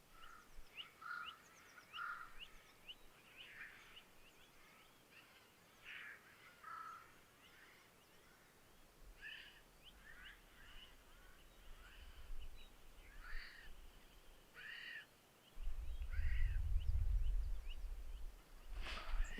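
Eurasian jays giving repeated harsh alarm calls in the forest, a sign that they have detected a danger, mixed with other short bird calls. A low rumble comes in for the last few seconds.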